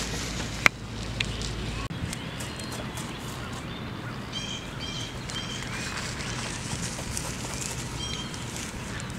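Outdoor ambience in a brushy field, with a few short bird chirps in the middle and one more near the end. A single sharp click sounds just under a second in.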